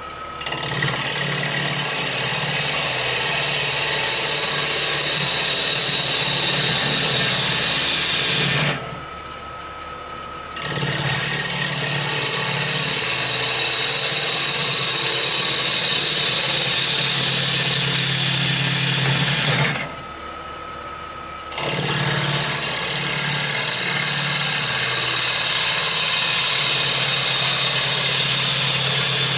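Bowl gouge cutting a spinning rowan bowl on a woodturning lathe, in three long passes of about eight seconds each with a short break after the first and second. The cutting noise falls slowly in pitch over each pass as the tool works toward the centre.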